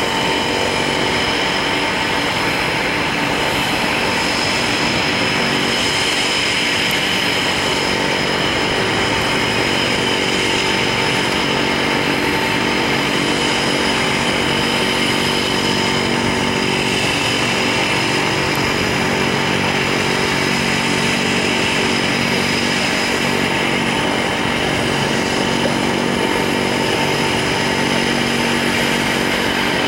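Jet airliner engines running with a steady whine over a dense rushing hum that holds level throughout.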